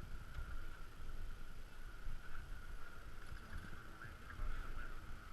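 Wind on the microphone and water rushing along the hull of a small sailboat under sail, an uneven low rumble, with a steady faint high-pitched tone throughout.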